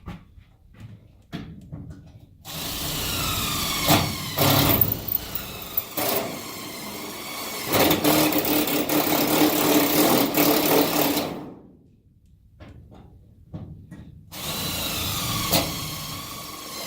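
Power drill boring holes into the school bus body. It runs twice, the first run about nine seconds long and the second starting near the end, its pitch sagging as the motor slows under load. A few sharp knocks come in the first run.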